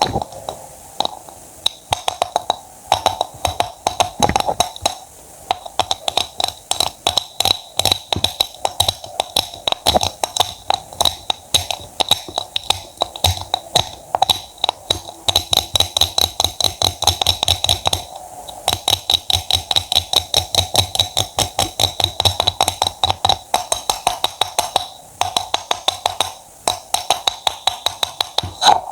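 Knife chopping quickly through produce on a cutting board: a rapid, even run of sharp cuts, about four or five a second, with a few short pauses.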